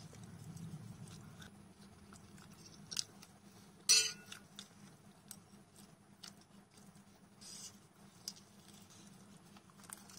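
Close-miked chewing of noodles and food, with scattered small mouth clicks and one louder sharp click about four seconds in.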